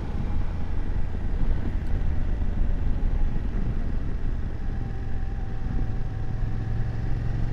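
BMW F750GS parallel-twin engine running as the motorcycle rides along, with a low wind rumble; the engine note steadies into an even hum about halfway through.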